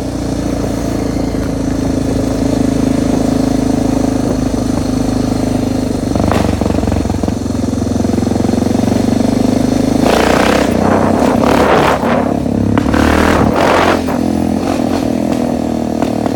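Suzuki DR650 dirt bike's single-cylinder four-stroke engine running steadily, with a few louder, noisier surges in the second half.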